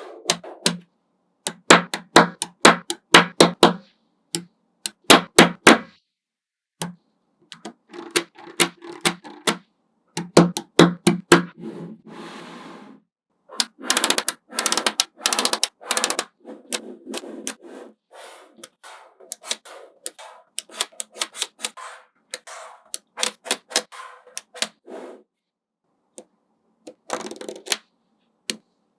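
Small magnetic balls clicking and snapping against each other as they are placed one after another, in quick runs of sharp clicks with short pauses between them.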